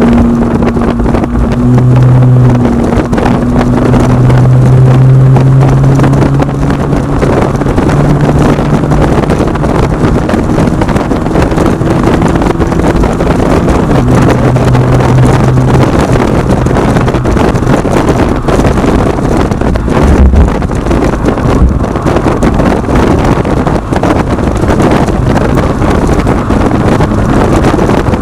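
Exhaust of a 2010 Acura TSX with Megan Racing aftermarket mufflers while driving: a low engine drone that climbs slowly in pitch over the first several seconds, then sinks into steady road and wind noise, coming up again briefly midway.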